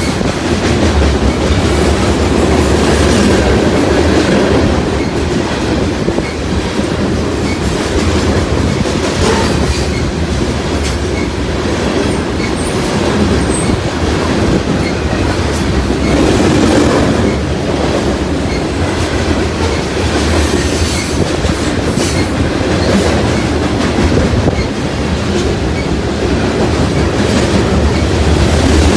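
A grain train of covered hopper cars rolling past close by: a steady, loud rumble of wheels on rail with a continuous run of clicks as the wheels cross rail joints.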